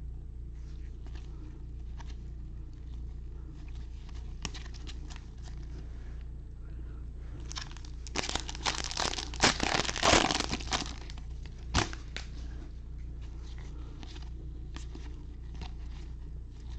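Crinkly wrapper of a Bowman baseball hobby pack being torn open and crumpled, loudest from about eight to eleven seconds in. Light ticks and rustles of the cards being handled come before and after.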